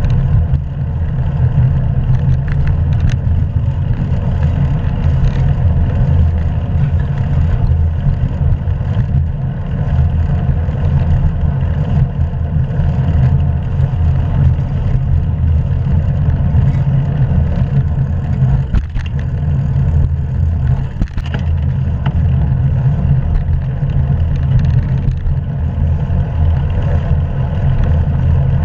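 Steady low rumble of wind and road noise picked up by a GoPro action camera riding along on a moving hybrid bicycle, with a couple of brief dips about two-thirds of the way through.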